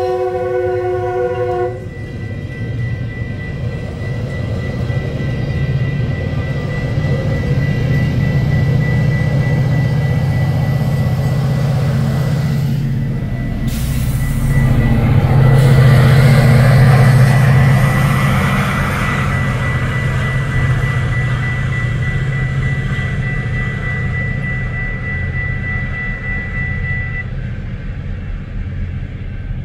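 Metrolink commuter train's horn sounding a chord that cuts off about two seconds in, then the low rumble of the diesel locomotive and bilevel cars accelerating through a grade crossing, swelling about halfway through. A steady high tone from the crossing's warning bell runs until near the end.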